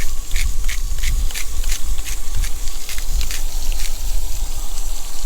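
Salt being dispensed onto food in a quick rhythmic run of crisp, scratchy strokes, about three a second, stopping about four seconds in, over a steady low rumble.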